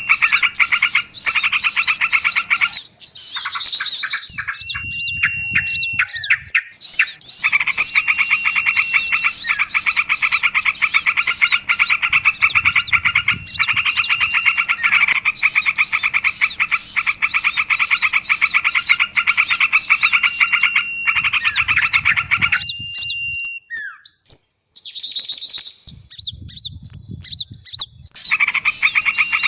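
Bird-lure recording of small songbirds: a dense, loud chorus of rapid repeated chirps and trills, with a steady held whistle coming and going. The chorus breaks off briefly a few times, the longest gap about three-quarters of the way through.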